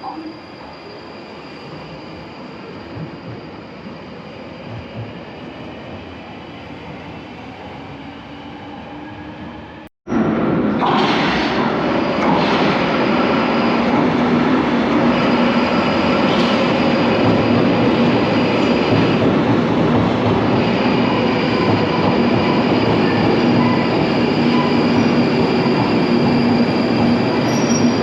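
London Underground Northern line train running at speed, heard from inside the carriage: a steady loud rumble with sustained whining tones. It follows a cut about ten seconds in from a quieter stretch of steady Underground ambience.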